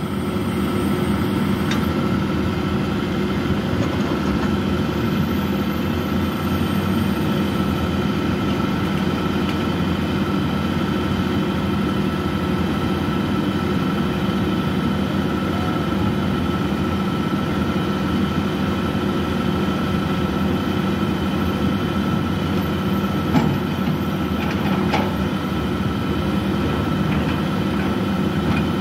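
Komatsu PC200 excavator's diesel engine running steadily under work, with a steady whine above the engine note. There is one short sharp knock near the end.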